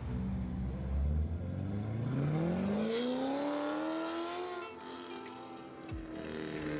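A car engine accelerating hard, its pitch climbing steadily for about three seconds before levelling off and easing away.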